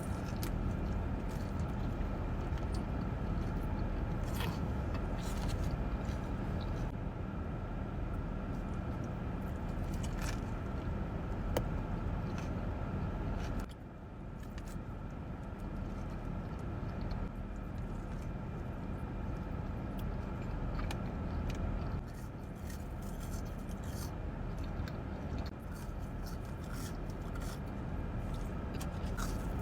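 Someone eating French fries and spicy garlic Parmesan chicken nuggets: scattered crunches, clicks and rustles over a steady low rumbling hum.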